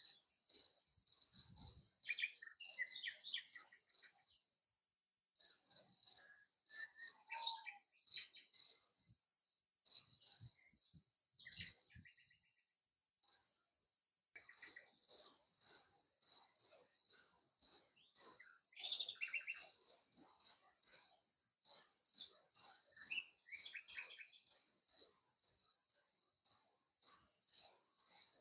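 Crickets chirping in an even high pulse, about two to three chirps a second, with scattered songbird calls over them. The sound cuts out completely twice, briefly.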